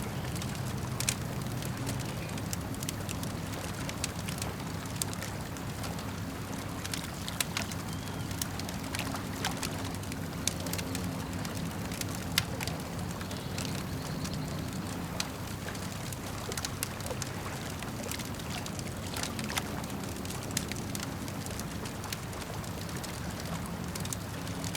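Wood campfire crackling, with irregular sharp pops and snaps, over a steady low wash of lake water.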